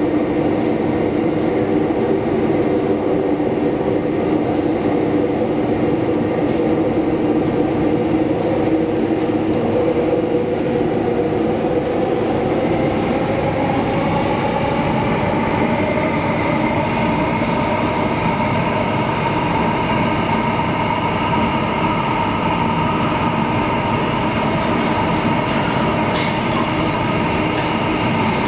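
Metro train running between stations, heard from inside the car: steady rolling noise under a motor whine that rises in pitch about halfway through as the train picks up speed, then holds steady.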